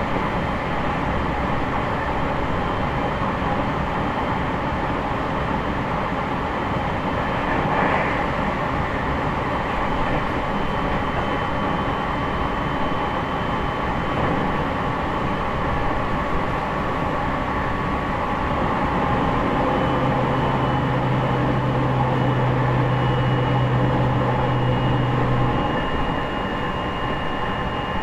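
JR East E501 series electric train, motor car MoHa E501-8 with a Toshiba IGBT inverter, running between stations, heard from inside the car: a steady rumble of wheels on rail with faint steady high tones. A low hum sounds from about twenty seconds in and stops about five seconds later.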